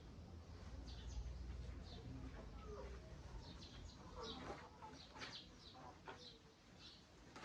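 Local chickens clucking and cheeping, faint short calls scattered throughout, with a few sharp clicks among them.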